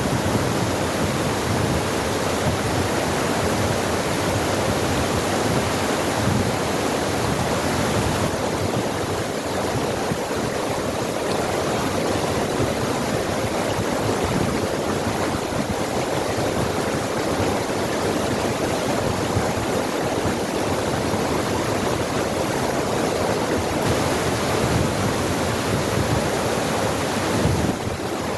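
Forest stream rushing over rocks: a steady, unbroken rush of flowing water that drops slightly in level near the end.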